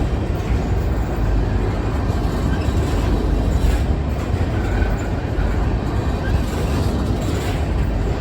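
Grain hopper cars of a freight train rolling past, giving a steady, unbroken rumble of steel wheels on the rails.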